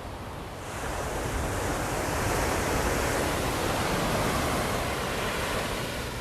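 Ocean surf: a wave breaks and washes up, the rush swelling about a second in and easing off near the end.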